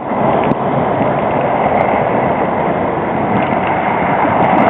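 Steady running noise of a vehicle being driven along a snowy street.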